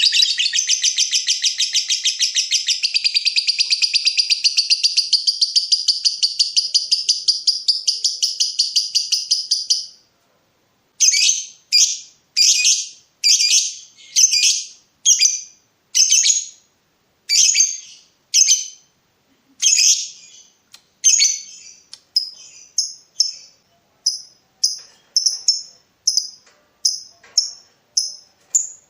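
Lovebird 'ngekek': a long, rapid, high chattering trill held for about ten seconds. After a short break it gives a run of separate sharp chirps, spaced out at first and coming faster and shorter near the end.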